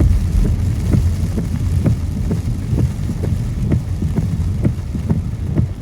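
Car driving on a wet road in the rain, heard from inside the cabin. A steady low rumble of road and tyre noise runs under soft, regular thumps about twice a second.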